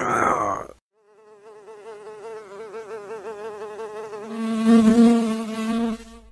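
A fly buzzing, wavering in pitch, growing louder as it comes close and loudest about five seconds in. It follows a brief vocal grunt at the very start.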